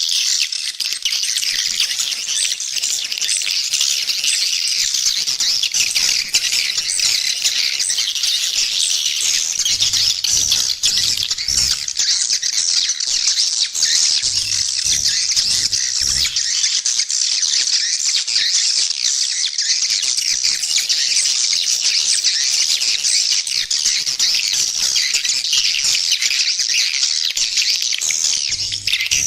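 Dense, continuous twittering chorus of swiftlets, many high chirps packed together with no pause. It is a swiftlet call sound of the kind played from swiftlet nest houses to lure the birds in to roost and nest.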